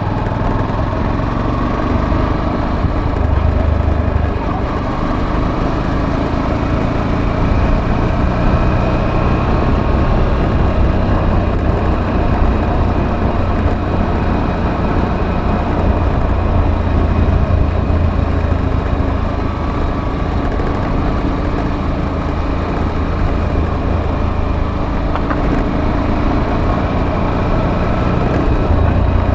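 Motorcycle engine running steadily on the move, its pitch rising and falling a little.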